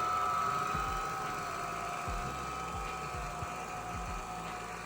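MOVA Z60 Ultra robot vacuum running, its motors giving a steady high whine, with a row of low thumps repeating beneath it.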